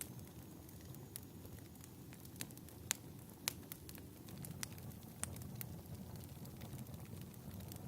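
Fireplace crackling: a steady low rumble of burning with irregular sharp pops and snaps, a few louder ones near the middle.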